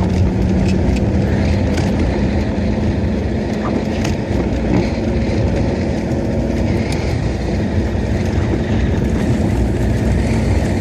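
Steady engine and cabin noise inside a VAZ 'classic' Zhiguli, the engine running with an even low hum and a few faint clicks.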